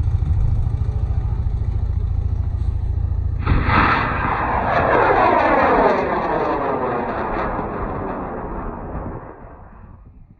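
High-power model rocket motor firing. A loud low rumble is followed, about three and a half seconds in, by a sudden louder, fuller roar that fades away over the next six seconds as the rocket climbs.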